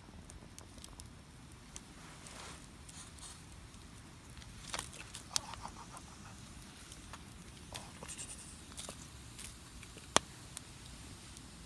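Wood campfire crackling: scattered small pops over a faint hiss, with a few louder sharp cracks, the loudest about ten seconds in.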